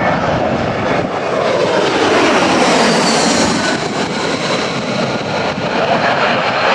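Aircraft engine noise, loud and steady, with a sweep in tone that falls and rises again in the middle as the aircraft moves past.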